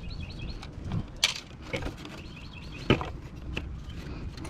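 A few sharp metal knocks and clicks from hand tools working loose parts of a window air conditioner while its fan motor is being freed, one louder knock about three seconds in. Birds chirp faintly in the background.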